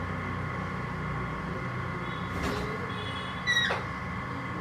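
A short, sharp call from an Alexandrine parakeet, falling in pitch, about three and a half seconds in, with a fainter one a second earlier, over a steady background hum.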